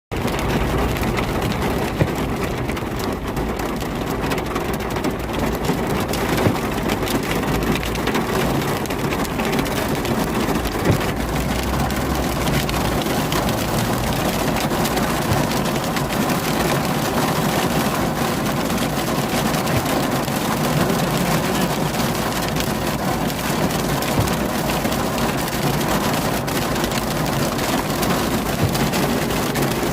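Hail and heavy rain pelting down: a dense, steady clatter of hailstones striking hard surfaces, with a few louder single hits.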